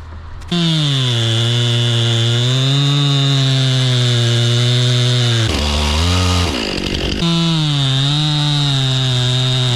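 Stihl two-stroke chainsaw running at full throttle and cutting into a tree trunk, starting about half a second in. About halfway through it eases off and drops in pitch for a second or so, then bites back in at full speed.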